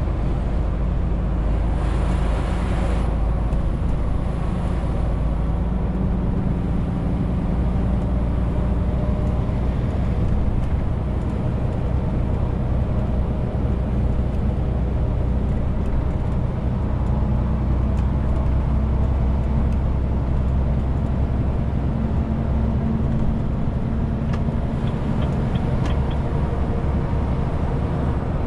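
Renault T520 truck's 13-litre six-cylinder diesel running steadily while driving loaded with 40 tonnes, a constant low engine drone mixed with road noise.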